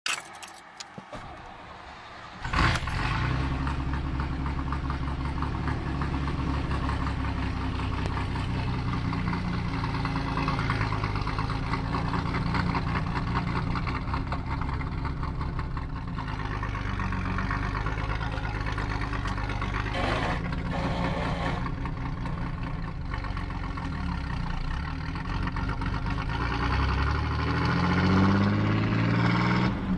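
Chevrolet S10 pickup with a straight-piped exhaust and glasspack. The engine fires up with a sudden loud bark about two and a half seconds in, then runs with its pitch shifting as the truck drives. It revs up near the end.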